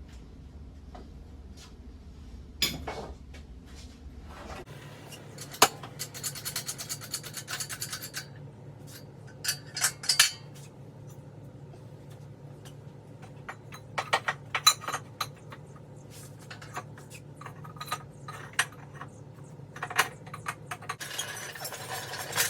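Metal tools and car parts clinking, rubbing and knocking in irregular clusters of sharp clicks, over a steady low hum.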